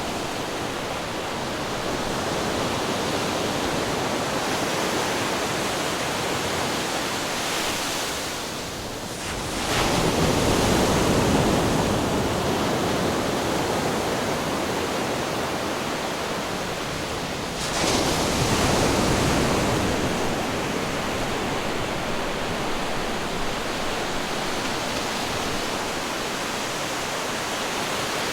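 Ocean surf washing against rocks in a continuous roar of water, with two waves breaking louder, one about a third of the way in and another a little past the middle.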